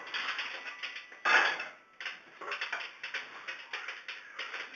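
Irregular light clicks and clinks, with one louder rustling clatter about a second and a half in.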